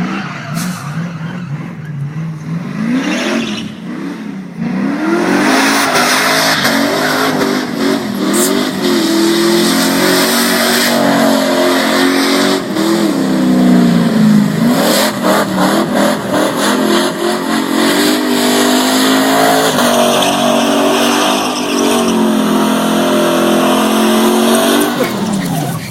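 Truck doing a burnout: the engine revs up and down over and over while the rear tires spin on the pavement. It gets louder about five seconds in, and the engine drops away near the end.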